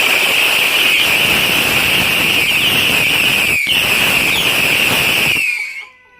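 A firework going off with a loud, steady rushing hiss and a shrill wavering whistle, lasting about six seconds and dying away near the end.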